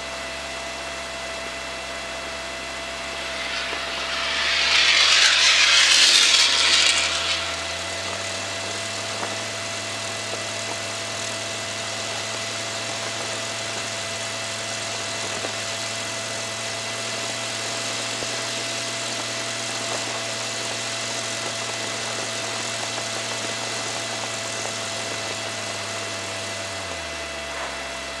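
Aircraft engine droning steadily in the cockpit, with a loud burst of hiss about four to seven seconds in. The engine's pitch steps up around eight seconds in and drops back shortly before the end.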